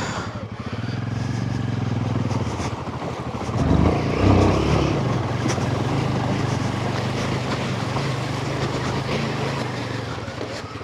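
Royal Enfield Himalayan 450's single-cylinder engine running steadily at low speed while the motorcycle is ridden, with a brief louder rush of noise about four seconds in.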